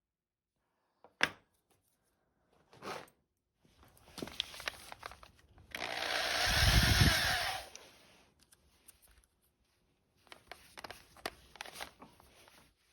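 A handheld power tool runs once for about two seconds, building to a peak, with clicks and knocks of handling before and after.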